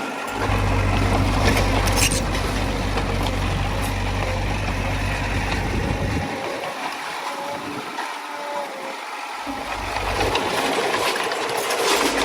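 Komatsu D20A bulldozer's diesel engine running under load. Its low rumble drops away for a few seconds past the middle and comes back near the end, over a constant broad mechanical noise with a few sharp clanks.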